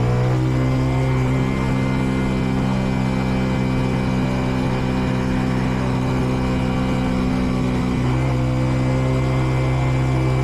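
Kreidler Dice CR 125 motorcycle's 125 cc single-cylinder engine pulling at a steady cruise. Its pitch settles after a rise and dips slightly about eight seconds in before holding again. The bike is in its running-in period, so the revs are kept moderate.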